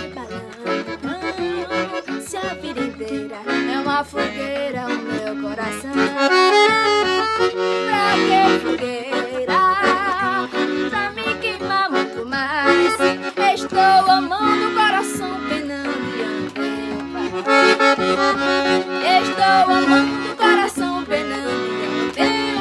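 Accordion (sanfona) playing the instrumental forró introduction, a wavering melody over an evenly repeating bass pattern.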